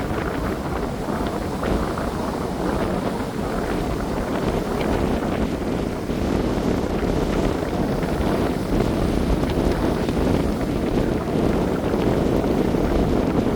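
Sea waves washing onto the shore, a steady rush of surf, with wind buffeting the microphone in a low rumble.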